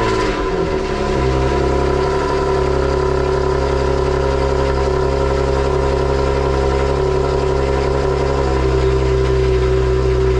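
Car engine just after a cold start on the stock exhaust with catless test pipes: the revs flare and drop in the first second, then settle into a steady, loud fast idle. It has a harsh, raspy tone that the owner calls terrible.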